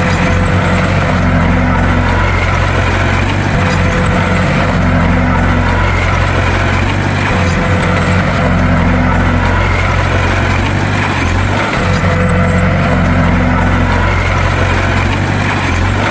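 Bulldozer's diesel engine running steadily, a deep continuous drone.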